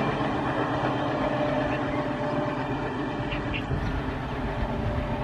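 Passenger train running away down the line: a steady rumble and rattle of the coaches on the rails, fading slowly.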